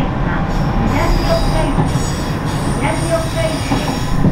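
Local train running, heard from inside the passenger car: a steady rumble of wheels on rails with short wheel squeals about a second in and again past three seconds.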